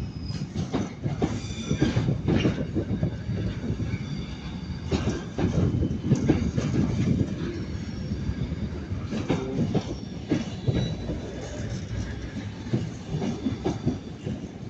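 Train wheels running over rail joints and pointwork, clacking irregularly over a steady rumble, with a faint high wheel squeal.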